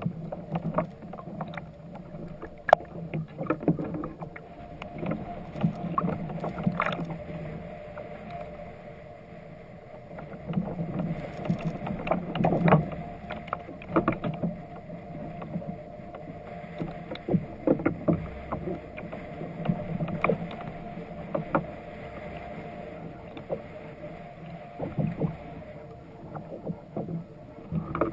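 Irregular knocks and taps on a fishing kayak, over a low steady hum.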